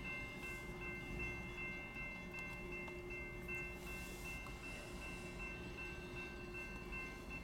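Train passing with a low rumble, under several high ringing tones that pulse on and off a few times a second.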